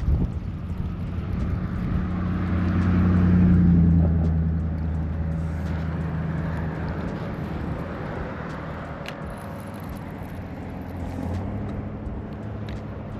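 A motor engine passing by: a low, steady drone that swells, is loudest about four seconds in, then slowly fades.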